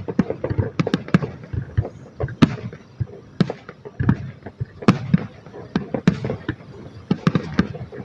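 Fireworks going off in a rapid barrage of sharp bangs and crackling, easing briefly about a third of the way in and then building again to a dense volley.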